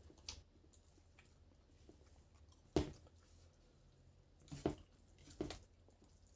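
A person eating and chewing food, with three sharp, louder bites or mouth sounds, the first and loudest a few seconds in and two more close together near the end.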